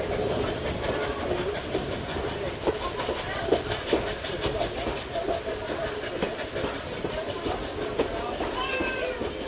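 Heritage steam train heard from aboard a passenger coach: a steady rolling rumble with the clack of wheels over rail joints. A brief wavering tone comes near the end.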